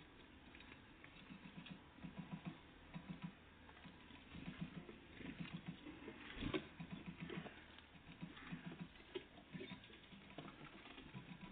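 Great tits and blue tits pecking and hopping on a bird feeder: irregular clusters of quick, light taps, with one louder knock about six and a half seconds in.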